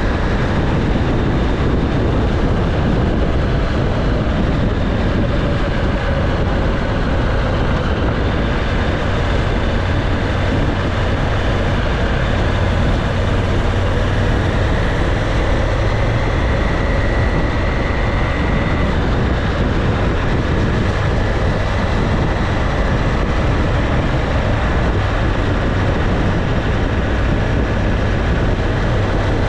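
Motorcycle riding at a steady speed, heard from the bike itself: a continuous rush of wind and road noise over a low engine drone, with no sudden events.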